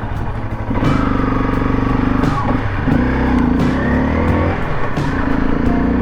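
Motorcycle engine pulling under way, its pitch climbing and dropping several times as it accelerates and shifts gears, louder from about a second in.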